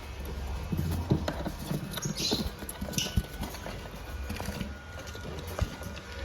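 Scattered knocks, taps and rustling from birds being handled in a lovebird aviary cage, with two short high-pitched calls, likely from the lovebirds, about two and three seconds in.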